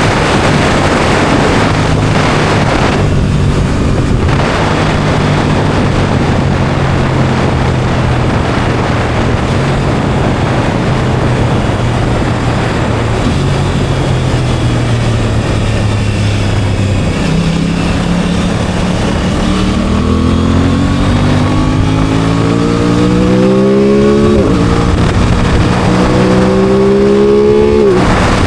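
Aprilia Tuono 660's parallel-twin engine under way, with heavy wind rush over it. It holds a steady note at first, then past the middle it revs up, drops in pitch at an upshift, and revs up again before another shift near the end.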